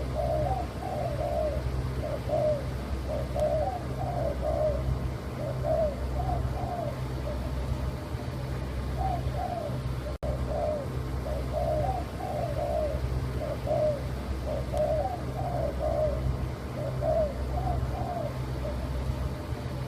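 Spotted dove (tekukur) cooing over and over: phrases of three or four short rolling notes, repeated every second or two, over a steady low hum.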